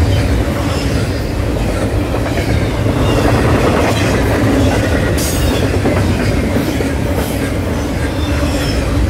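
Double-stack intermodal freight train's well cars rolling past at speed: a steady rumble of steel wheels on the rails, with a brief sharp high screech about five seconds in.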